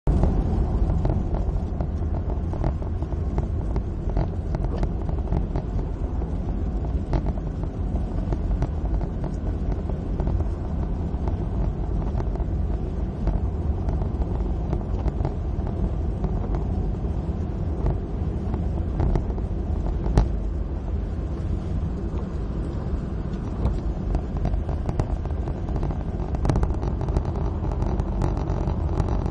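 Suzuki Swift driving at motorway speed in the rain: steady engine and road noise, with a few short sharp ticks.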